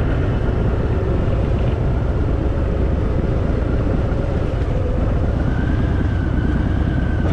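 Harley-Davidson Fat Boy's V-twin engine running steadily while riding at road speed, under heavy wind rush on the microphone.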